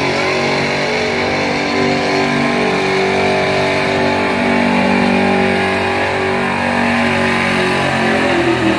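1975 Chevrolet pulling truck's engine running hard at high revs under load as it drags the sled down the track. The pitch holds fairly steady, wandering slightly up and down.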